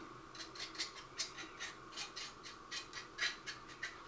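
A brush scrubbing weathering powder onto a plastic model building: a quick, irregular series of short bristly strokes, about three or four a second.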